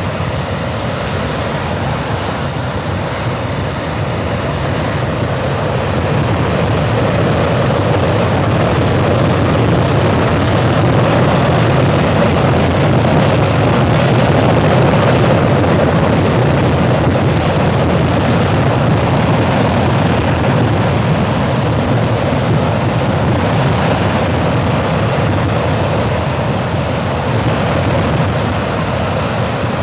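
The No. 1 Rolls-Royce Avon turbojet of an English Electric Lightning running on a ground test run: a loud, steady rush of jet noise that swells slightly toward the middle and eases a little near the end.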